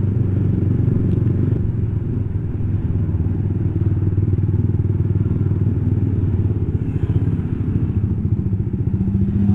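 Honda CB150 motorcycle's single-cylinder engine running at steady low revs while riding slowly in traffic, heard as an even low hum.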